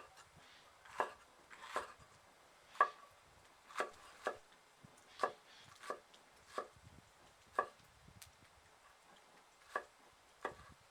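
A knife chopping food on a cutting board: about a dozen separate strokes, roughly one a second at an uneven pace.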